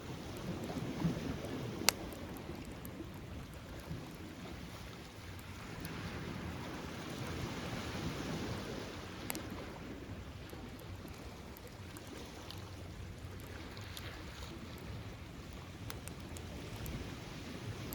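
Beach bonfire crackling with scattered sharp pops, one loud pop about two seconds in, over the steady wash of surf swelling and easing.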